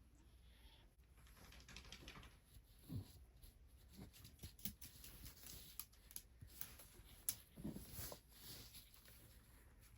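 Faint rubbing of hands on bare feet during a foot massage: soft skin friction with scattered small clicks and ticks, and a couple of soft low thumps.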